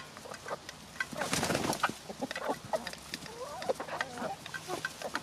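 Backyard chickens clucking and giving short wavering calls as they feed, with quick sharp taps of pecking throughout and a brief rustling burst about a second in.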